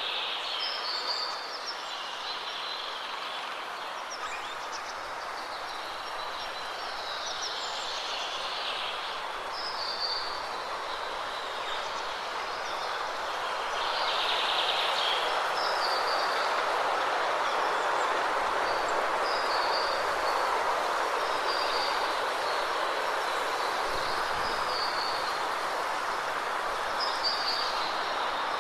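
Steady rush of a waterfall, a little louder from about halfway through, with birds chirping over it in short high calls every second or two.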